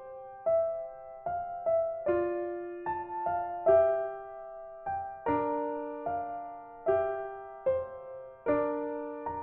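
Background piano music: gentle chords and single notes struck about once a second, each ringing and fading.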